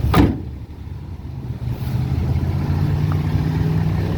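Diesel engine of a 2010 Dodge Ram 3500 idling with a steady low hum, steadier from about two seconds in. Right at the start there is a brief loud swish falling in pitch.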